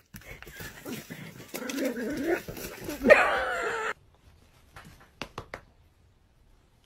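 A dog whimpering and yelping in short, wavering cries, with the loudest yelp, falling in pitch, about three seconds in. It stops abruptly, leaving only a few faint clicks.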